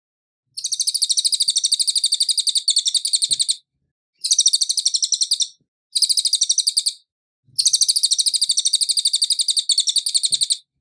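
Cililin bird singing: four long, high-pitched trills of very rapid, evenly repeated notes, separated by short silent breaks.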